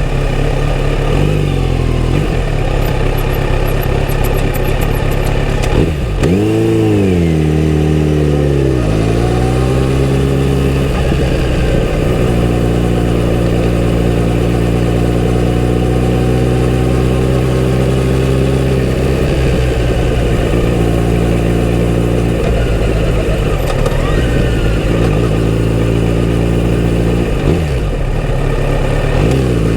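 Kawasaki Z900RS inline-four engine through its stock exhaust, riding. About six seconds in it revs up and shifts through several gears, the pitch climbing and dropping in quick steps. It then runs steadily at cruising speed, with another shift near the end.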